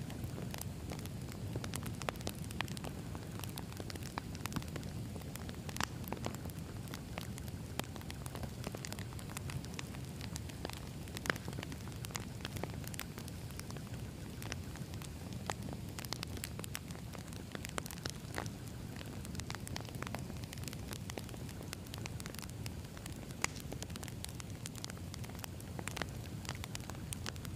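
Wood campfire burning, a steady low rumble of flames with frequent irregular crackles and pops from the burning logs.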